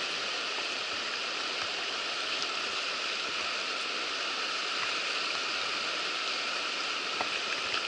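River water rushing steadily over rocks in fast pocket water, an even, unbroken rush.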